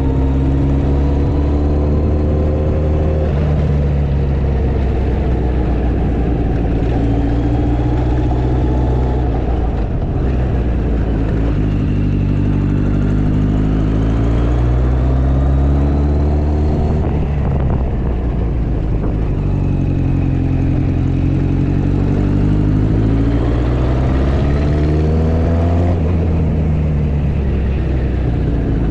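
Motorcycle engine running on the move, its pitch climbing as it accelerates and dropping back as it shifts or eases off, several times over. Steady wind and road rush lies beneath.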